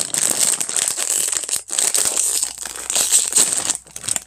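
Potato chip bag crinkling and rustling loudly as it is opened, dying away near the end.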